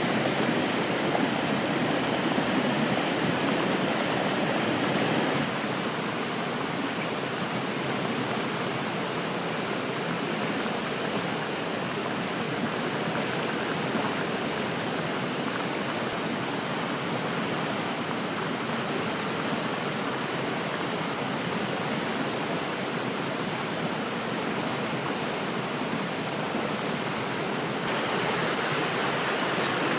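River water flowing, a steady rushing noise with no distinct splashes. Its level drops a little about five seconds in and rises again near the end.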